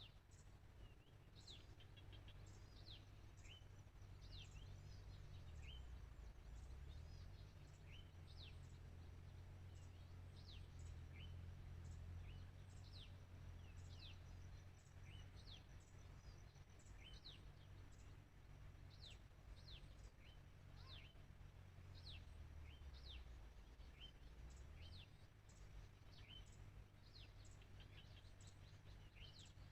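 Faint outdoor ambience: small birds chirping with many short, quick downward-sliding notes, over a low steady rumble.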